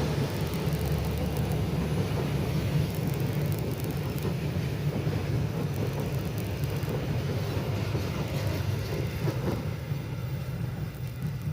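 Train running past with a steady low rumble and hiss, easing off slightly near the end.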